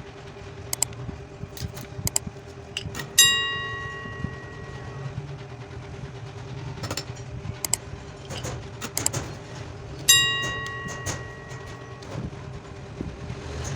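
Scattered clicks and taps from handling wires and small parts, over a steady low hum. Twice, about three and ten seconds in, comes a sharp bell-like ring that fades over about two seconds.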